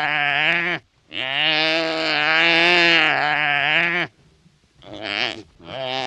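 An animal bleating: drawn-out quavering calls, one lasting about three seconds, followed by two shorter ones near the end.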